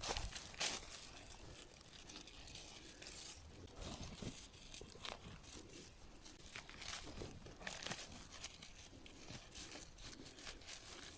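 Faint, irregular rustling and crackling of dry forest-floor litter being handled while small wild mushrooms are picked, with a sharper crack about half a second in.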